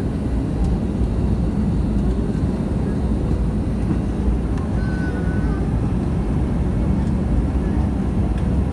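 Airliner landing noise: a steady low rumble of engines and airflow with no sudden changes.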